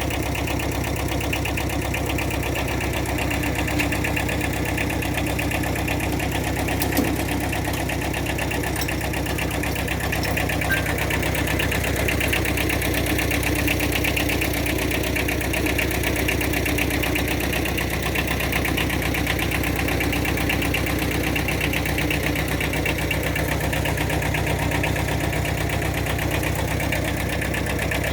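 Engine idling steadily at constant speed, with a few faint clicks over it.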